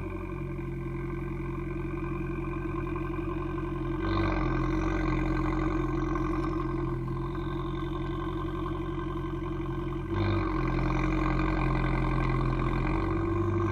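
Abarth 595 Competizione's turbocharged 1.4-litre four-cylinder running through an Akrapovic exhaust at a steady idle. It gets louder about four seconds in and again about ten seconds in, holding a steady pitch each time.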